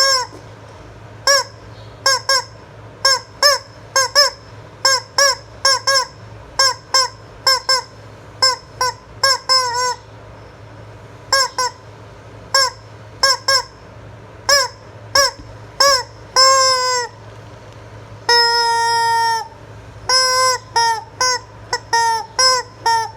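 Squeezed rubber chicken toy honking over and over: mostly short squawks about two a second, each bending up and down in pitch, with a couple of longer, steady squawks of about a second.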